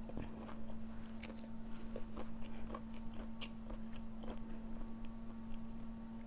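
Close-up chewing of a crispy breaded vegan fried chicken nugget, with irregular crunches of the crust. A steady low hum runs underneath.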